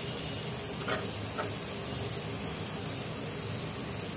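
Boiled potatoes frying in hot oil in a kadhai, sizzling steadily, with a couple of light clicks about a second in.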